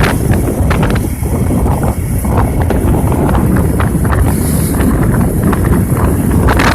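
Wind buffeting the microphone: a loud, steady low rumble with scattered crackling pops.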